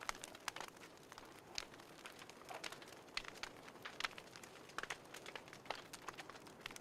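Wood fire crackling: irregular sharp pops and snaps, a few each second, over a faint hiss.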